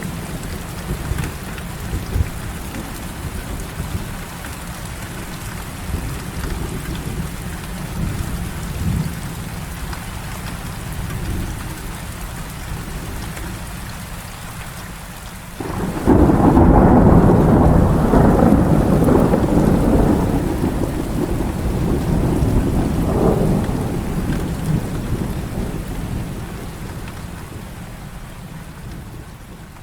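Heavy rain falling steadily with low thunder rumbling underneath. About halfway through, a loud thunderclap sets in suddenly and rumbles on for several seconds, slowly dying away.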